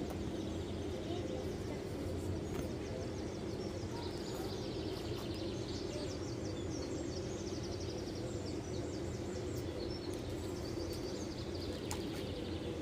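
Steady outdoor ambience with a constant low hum, over which small birds chirp rapidly and repeatedly through most of the stretch.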